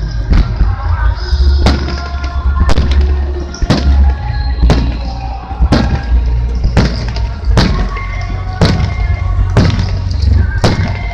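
Fireworks display: shells bursting at an even pace of about one a second, over a steady low rumble, with music playing along.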